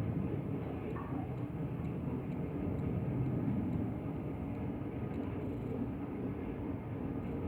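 Steady low rumble of running machinery.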